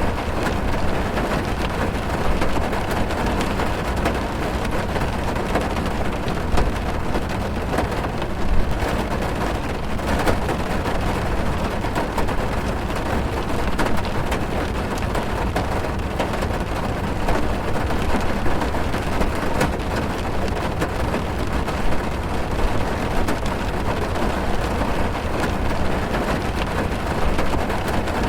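Steady heavy rain drumming on a car's roof and windows, heard from inside the cabin: a dense even patter with scattered sharper drops.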